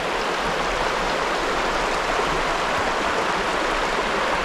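Running water of a stream, a steady even rushing.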